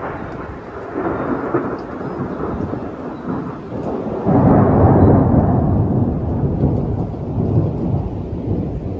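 Thunder rumbling over steady rain, with a loud crash of thunder about four seconds in that rolls on for several seconds.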